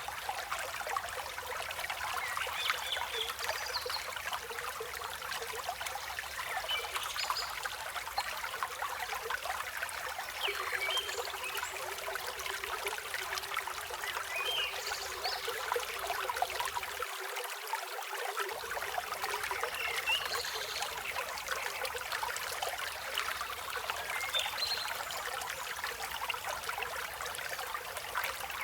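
River flowing steadily, a continuous rush of water, with short bird chirps every few seconds.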